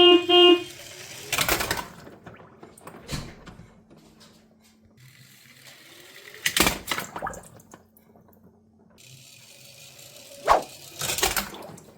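Water splashing in four bursts, with quieter trickling and dripping between them, as toy trucks are washed.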